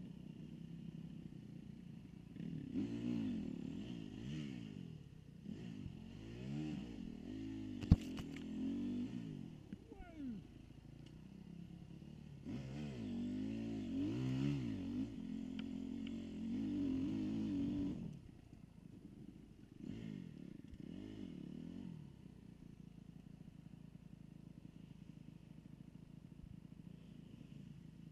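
Dirt-bike engine revving up and dropping back in repeated bursts, pitch rising and falling as the throttle opens and closes, with quieter lulls between and a long lull near the end. There is one sharp knock about eight seconds in.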